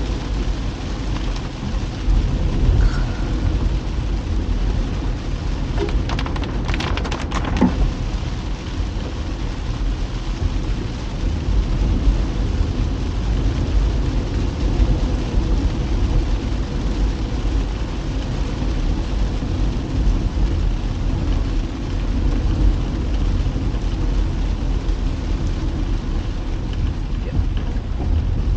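A vehicle driving in the rain: a steady hiss of rain and wet road noise over a constant low rumble. A short run of clicks or taps comes about six to eight seconds in.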